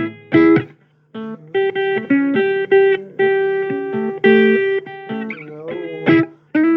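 Blues electric guitar playing an instrumental fill of held single notes, with bent notes near the end.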